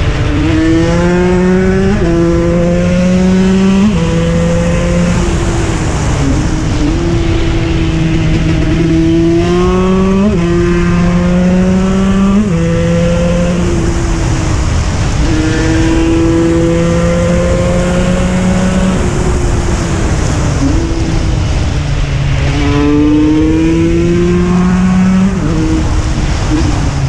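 KTM 125 EXC's single-cylinder two-stroke engine being ridden hard. The revs climb and then drop sharply many times over, as it shifts up through the gears, with a few longer pulls and slower falls off the throttle.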